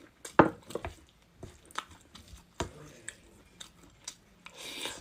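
Close-up eating sounds: chewing with a series of sharp clicks and taps, the loudest about half a second in, and a brief rustle near the end.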